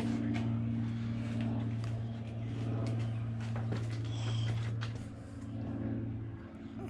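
Chevy C10's swapped 5.3 L V8 running at a steady pitch, held against the trans brake to check the torque converter's stall speed, then easing off near the end.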